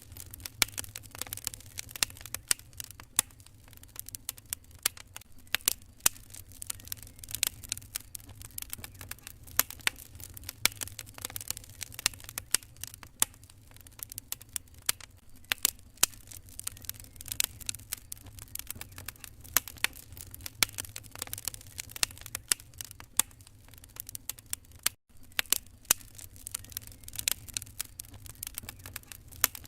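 Wood fire crackling in a fireplace: many irregular sharp pops and snaps over a steady low hum. The sound drops out for an instant a few seconds before the end.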